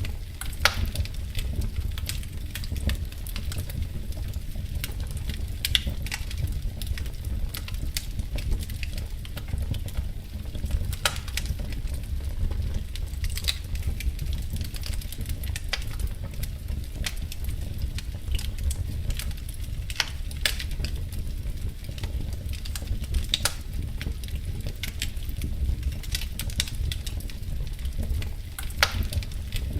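Crackling wood fire in a fireplace: irregular sharp pops and snaps over a low, steady rumble.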